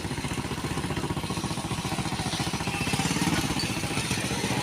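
Small motorcycle engine running as it is ridden, a steady low pulsing putter that rises a little in pitch just past the middle.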